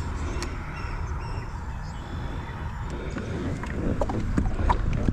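Wind rumbling on the microphone and water against a plastic kayak hull, with scattered light clicks and knocks from the second half on.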